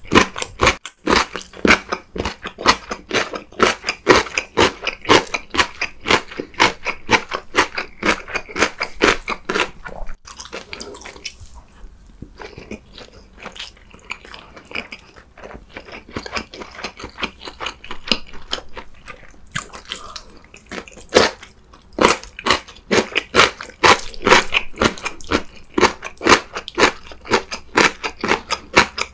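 Close-miked person chewing and biting food with crunches, a quick steady run of chews several a second. The chewing goes softer and sparser through the middle and turns loud and dense again near the end.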